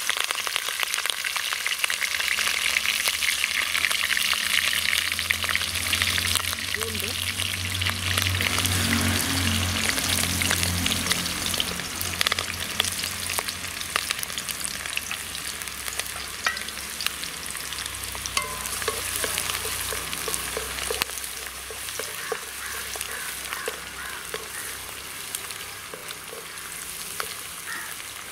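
Green chillies, mustard seeds and chopped garlic frying in hot oil in an aluminium kadai: a dense sizzle full of small crackles, loudest in the first ten seconds or so and slowly dying down. Near the end a wooden spatula stirs the pan.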